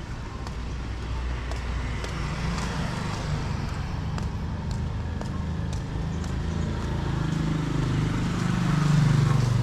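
A motor vehicle's engine running close by, with a low hum that builds steadily and is loudest near the end, over general traffic noise.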